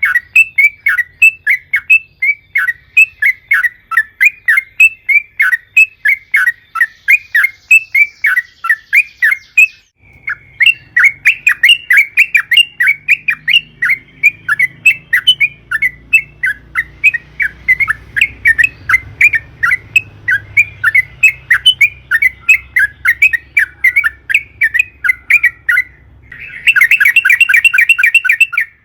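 Yellow-vented bulbul (trucukan) singing a fast, loud chattering song of repeated notes, about three to four a second, with a brief break about ten seconds in. Near the end it goes into a quicker, denser trill.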